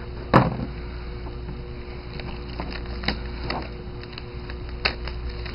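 A sharp knock about a third of a second in, then scattered small clicks and brief rustles of a trading-card box and its packaging being handled, over a steady low electrical hum.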